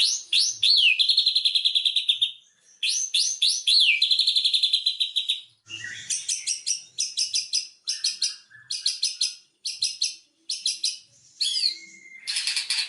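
White-rumped shama (murai batu) singing: two phrases of quick upward-sweeping notes running into fast trills, then a string of short, rapid chattering bursts from about halfway through.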